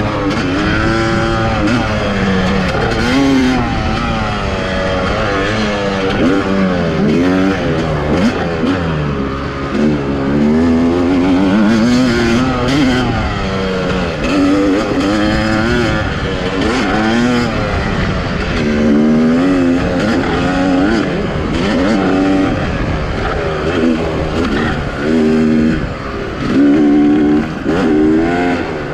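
Dirt bike engine revving hard and then backing off, over and over, its pitch rising and falling every second or two as the rider works the throttle through the trail.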